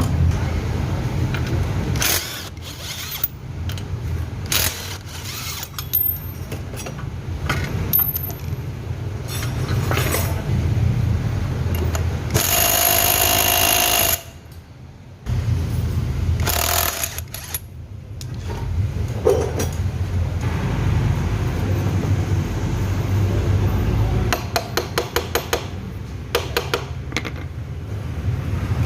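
Workshop tool noise while the exhaust is unbolted from a Honda Beat FI scooter. A power tool runs in one burst of about a second and a half near the middle. Scattered metal knocks and clanks come elsewhere, and a run of rapid, even clicks comes near the end, all over a steady low hum.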